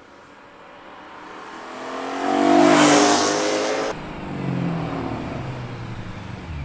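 BMW E92 M3's S65 V8 accelerating hard with its valved stainless exhaust open, the engine note climbing in pitch and growing loud over the first three seconds. It cuts off abruptly about four seconds in, leaving a quieter engine sound.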